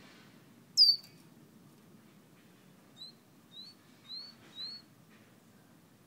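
Caged songbird whistling: one loud, sharp note sliding downward about a second in, then four short rising chirps in quick succession from about three seconds in, each a little louder than the last.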